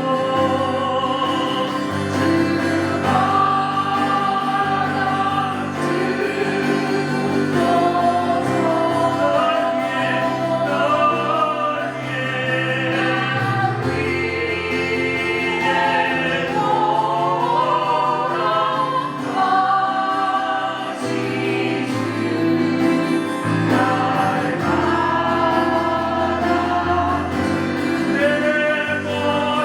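Several voices singing a Korean gospel hymn together, with instrumental accompaniment holding sustained bass notes beneath.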